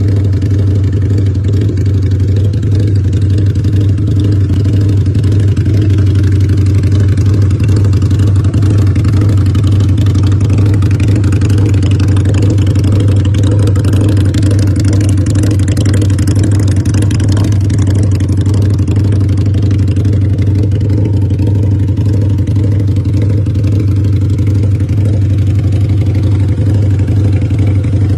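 Motorcycle engine running steadily at an even, unchanging speed.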